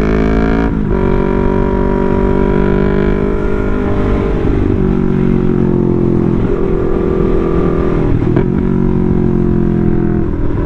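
Yamaha R3's parallel-twin engine, loud through its exhaust, running under way on the road. The engine note rises a little, breaks off sharply and picks up again about a second in and near the eight-second mark, as with gear changes, and otherwise holds steady.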